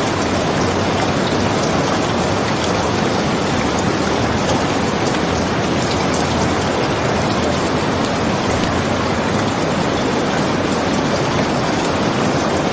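Steady rain falling, an even, unbroken hiss with a few faint ticks scattered through it.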